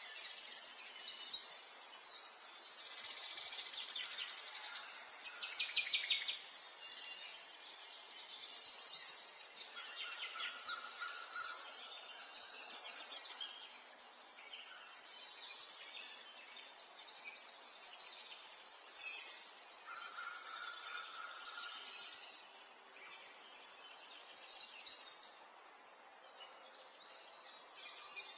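Wild birds singing and chirping, several overlapping songs of quick repeated high notes that come and go in phrases.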